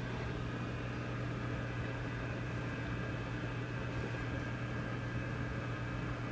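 Vintage tube amplifier idling with no signal: a steady mains hum, strongest low down, with buzzing overtones and a bed of hiss.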